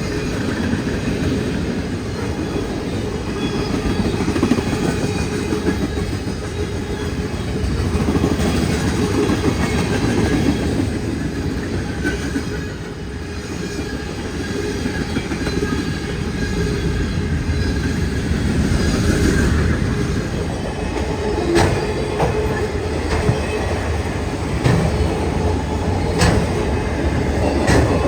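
Train cars rolling past, the wheels on the rails making a steady rumble. In the last several seconds there are a few sharp clicks as wheels pass over rail joints.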